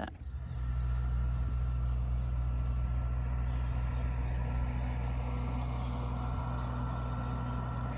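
Steady low mechanical hum, like a running engine or generator, with a faint high whine over it. Faint short high chirps repeat in the background.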